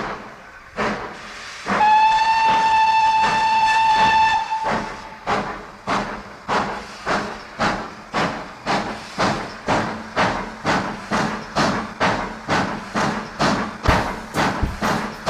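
Steam locomotive pulling away: a steady whistle blast of about three seconds starting about two seconds in, and exhaust chuffs that speed up steadily, from slow puffs to a quick rhythm.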